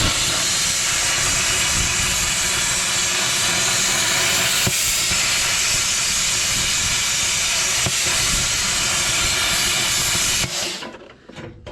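Plasma cutter running, a steady loud hiss of the arc and its air cutting a circular hole through steel plate, stopping abruptly near the end.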